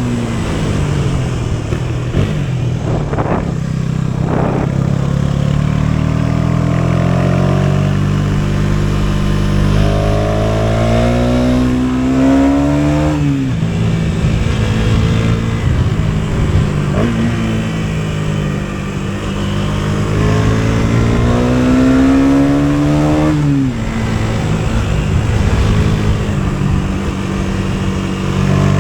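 KTM Duke 250's single-cylinder engine under way, its pitch falling off at first, then twice climbing steadily for several seconds as it pulls and dropping sharply, about halfway through and again near the end.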